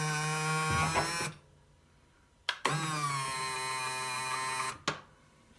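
Small electric motor of the plow-lift linear actuator whining steadily in two runs of about two seconds each. The second run ends with a click.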